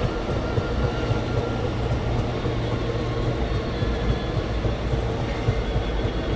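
Moving Indian Railways passenger train heard from its window: a steady rumble of the carriage and wheels on the track, with faint steady whining tones above it.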